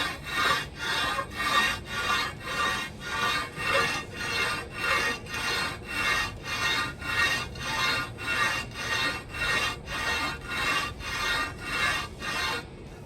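Ford Model A cast-iron manifold flange being rubbed back and forth on sandpaper, a steady rasping at about two strokes a second, which stops shortly before the end. The flange is being ground flat because it is warped, worst at the two ends.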